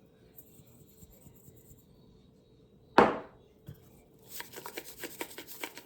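Seasoning being shaken from a spice container onto a raw chicken breast: a sharp knock about three seconds in, then a quick run of light ticks and rattles.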